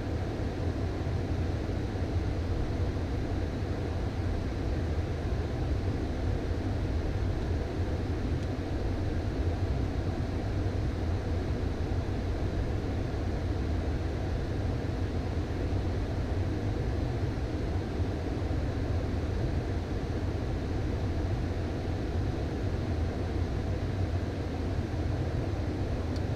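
Steady in-flight cockpit noise of a Beechcraft Premier I business jet: an even rush of airflow over a low drone from the engines, unchanging throughout.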